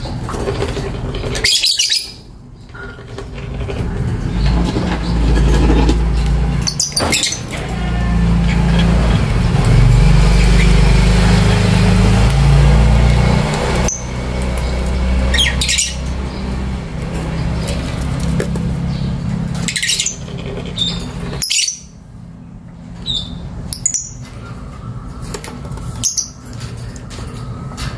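Lovebirds giving short, sharp chirps and squawks every few seconds, over a loud low rumble that is strongest in the first half and then fades.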